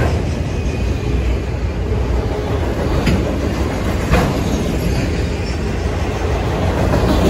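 Freight cars of a Norfolk Southern manifest train rolling past at speed: a steady loud rumble of wheels on rail, with a couple of sharp wheel clicks about three and four seconds in.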